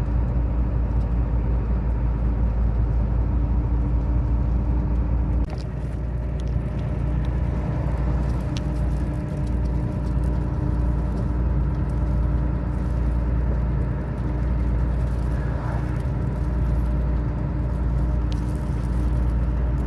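Heavy diesel truck engine running steadily on the road, its low hum shifting about five and a half seconds in.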